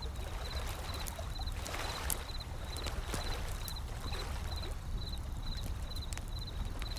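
Wood fire crackling with scattered sharp pops over ocean waves washing in, with a low steady rumble beneath. A faint high chirping repeats about two and a half times a second.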